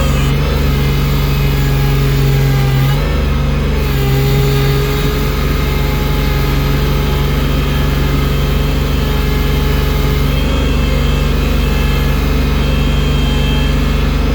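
Engine of a bucket-equipped snow-clearing machine running steadily, with a brief change in engine pitch about three seconds in as the load or throttle shifts.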